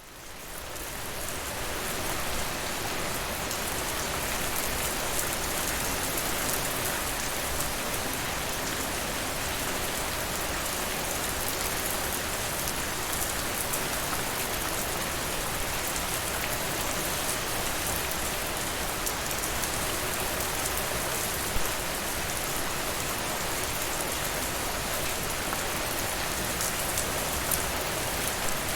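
Steady rain falling, fading in over the first two seconds, with a few sharper ticks here and there.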